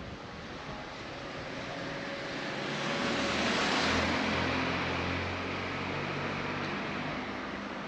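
A car passing by: engine and tyre noise swelling to a peak about four seconds in, then fading away.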